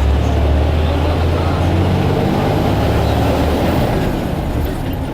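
Blue Bird All American bus running, a steady low engine drone.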